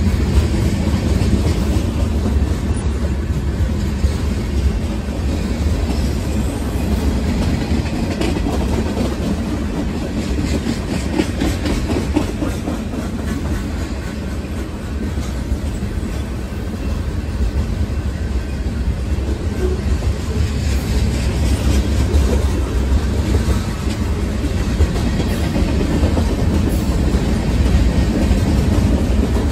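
Freight train cars rolling past at close range: a steady, loud wheel-on-rail noise with a deep low rumble and rapid, continuous clicking of the wheels over the rail.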